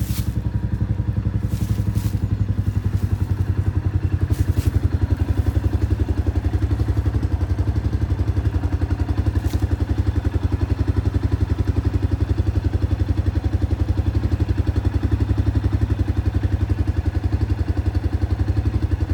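JEP Tractor 500 4x4 utility vehicle's engine running steadily at an even speed, with a few light clicks in the first seconds.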